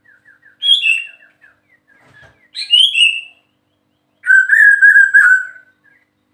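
White-rumped shama singing: two short whistled phrases that fall in pitch, then a longer, lower warbling phrase about four seconds in. A faint run of quick, soft repeated notes sits beneath the start.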